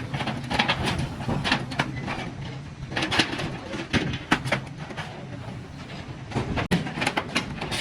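Workshop clatter: irregular metallic knocks and clanks, several a second in places, over a steady low hum.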